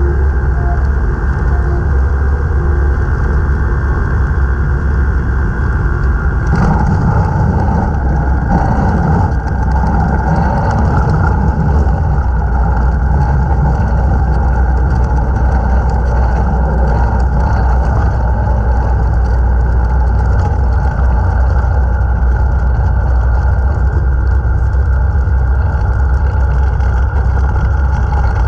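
Rotax 912S flat-four engine of a Best Off Nynja ultralight running steadily, with a constant low drone, during a simulated engine-failure glide. About six seconds in, the sound gets fuller and brighter and stays that way.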